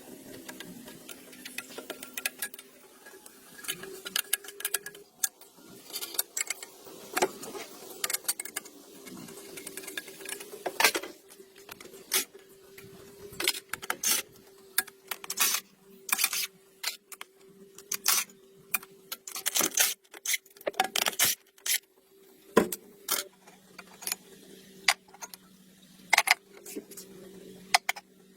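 Irregular metallic clinks and taps of hand tools being handled on engine parts, over a faint steady hum.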